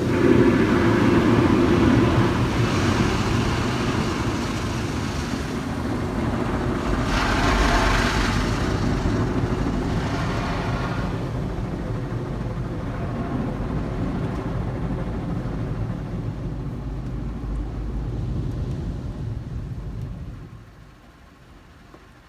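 Car wash running: a steady rush of spray and machinery noise, with a brighter surge of spray about seven seconds in, that dies away about twenty seconds in.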